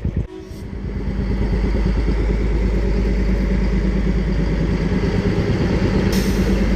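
Diesel locomotive of the Matheran narrow-gauge mini train running close by, its engine swelling to a steady loud throb within the first couple of seconds, with a short hiss near the end.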